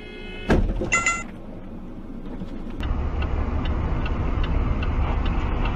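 Car audio: a sharp thump about half a second in and a short pitched tone just after it, then steady road and engine rumble from about three seconds in that cuts off abruptly.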